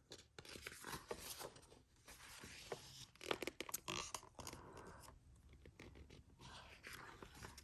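Faint, irregular rustling and scraping of paper, with small clicks: the pages of a picture book being handled and turned.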